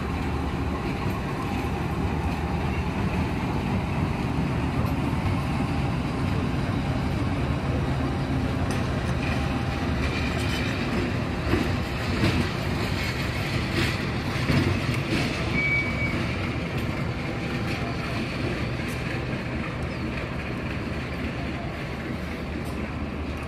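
Diesel-electric locomotive running as it moves slowly through the station yard with its passenger coaches, a steady low engine drone. A few brief high squeals, typical of wheels on rails, come around the middle.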